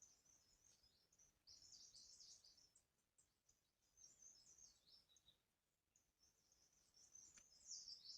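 Faint, high-pitched chirping and twittering of small birds in several short spells with quiet gaps between.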